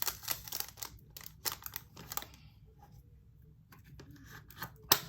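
Quick clicks, taps and light rustling of small plastic items being handled: diamond painting drills and their bags and storage containers. A quieter pause comes midway, and a sharper tap near the end.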